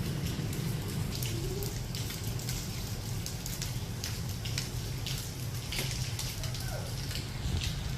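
Light rain falling, with scattered separate drop hits over a steady low rumble.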